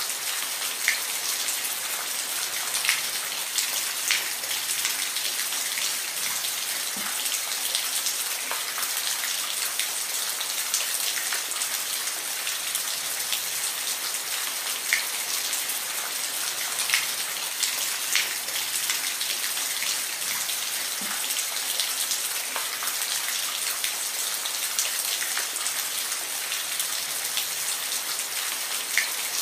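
Steady rain falling, a constant hiss with individual drops pattering and dripping close by at irregular moments.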